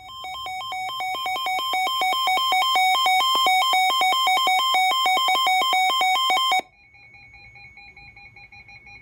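Electronic emergency alert tone rapidly alternating between two pitches several times a second, swelling louder over the first few seconds. It cuts off abruptly about two-thirds of the way in, leaving a fainter steady tone.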